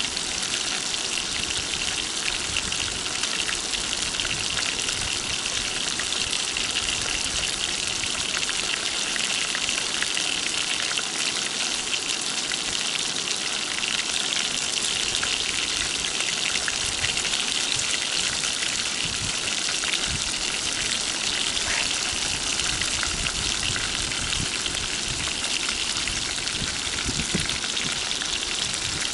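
Flour-dusted rotan fish frying in oil in a pan: the oil sizzles and crackles steadily, without a break.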